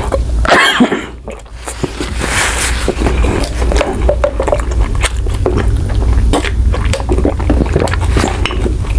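A person chewing a big mouthful of food with the mouth closed, close to the microphone: wet, squishy chewing with many small clicks, after a loud breath out about half a second in. A steady low hum sits under it.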